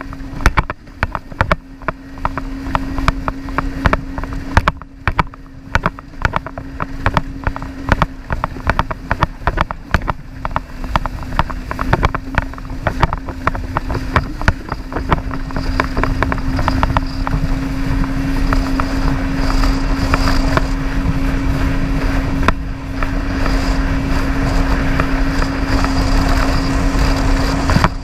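Jet ski engine running at a steady pitch, with wind buffeting the microphone.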